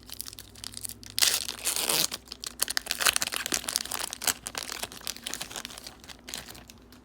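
Trading card pack wrapper being torn open and crinkled, a loud rip about a second in, then continued crackling and small clicks as the wrapper is handled and the cards are pulled out.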